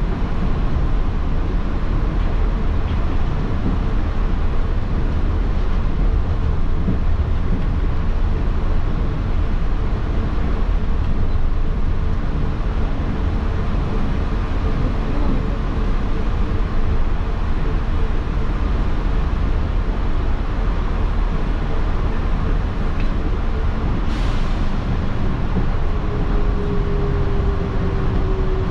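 Running noise heard inside a Yurikamome rubber-tyred automated guideway train: a steady low rumble from the tyres on the concrete guideway. Near the end a motor whine joins in and slowly falls in pitch as the train slows for the next station.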